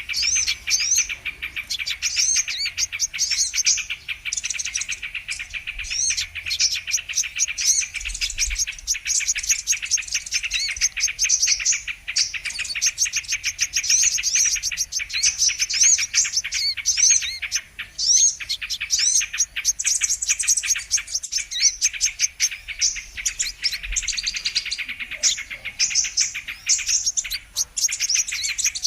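Sunbirds (kolibri kelapa, the brown-throated sunbird) calling in a bird-lure recording: a dense, unbroken stream of high, quick chirps and trills that overlap one another.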